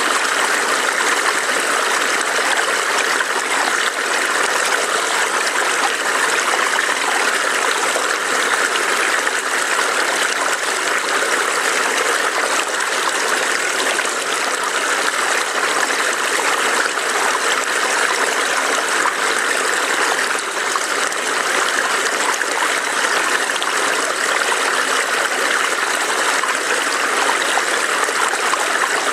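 A burbling forest stream running over rocks, a steady rush of water with no change in level.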